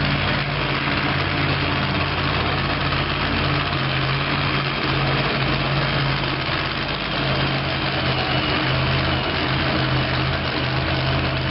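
Truck-pull engine idling steadily, with no revving.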